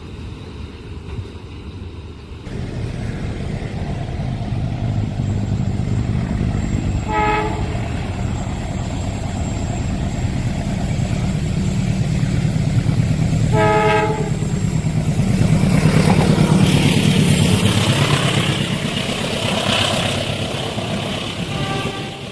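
Diesel train approaching with its locomotive engine running steadily, sounding two short horn blasts several seconds apart, then growing loudest as it passes close by with the noise of its wheels on the rails.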